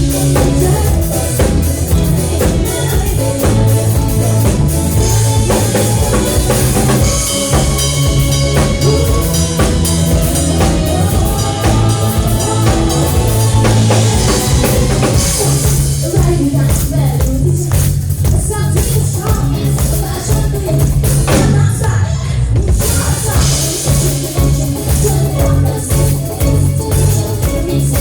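Live band playing rock music, led by a drum kit with bass drum and rimshots over a bass line.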